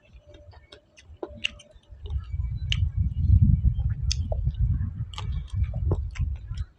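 A person chewing food close to the microphone. The dull, uneven chewing sounds grow much louder about two seconds in, with scattered small clicks throughout.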